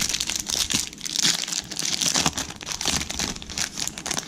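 Plastic wrapper of a pack of baseball trading cards being torn open and crinkled by hand, a dense run of crackling and rustling.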